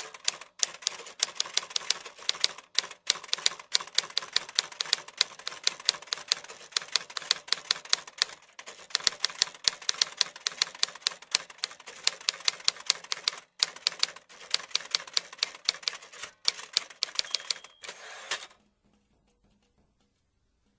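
Fast, uneven clicking in runs broken by brief pauses, stopping suddenly near the end.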